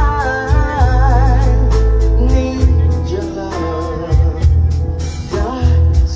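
Live band music: a singer with a wavering, vibrato-laden melody over heavy bass and a steady drum beat.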